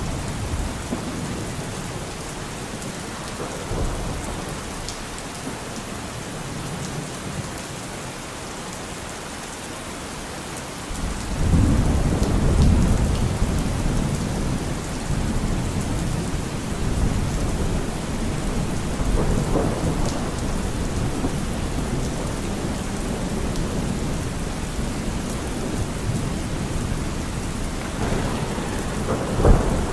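Steady rain falling, with a low roll of thunder that swells suddenly about a third of the way in and rumbles on for several seconds, and a short, sharper thunderclap near the end.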